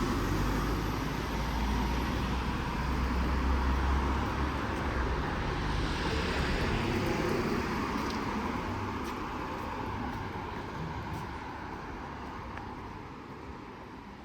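Road traffic noise: the low rumble of a passing vehicle, strongest in the first few seconds and then slowly dying away.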